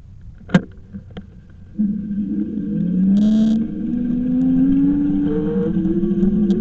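A couple of sharp clicks, then a motor starts up and runs with a steady whine that rises slowly in pitch as it speeds up.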